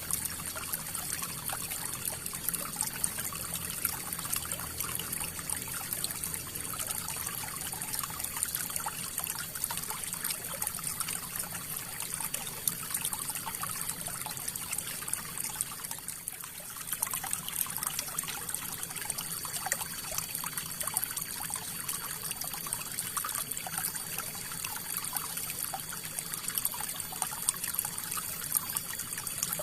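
River water flowing and trickling over stones: a steady, even rush with fine splashing and bubbling, dipping slightly for a moment about halfway through.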